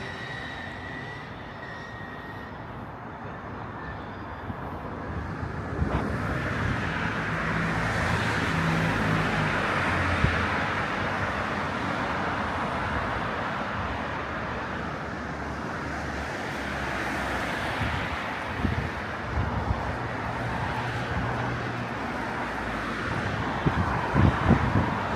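City street ambience: steady traffic noise with cars passing, their engine hum rising and falling. It grows louder about six seconds in.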